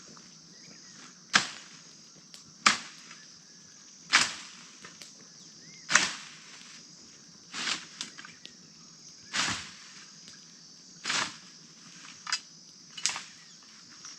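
Bonfire of burning trash popping with loud, sharp snaps every one to two seconds, over a steady high chirring of insects.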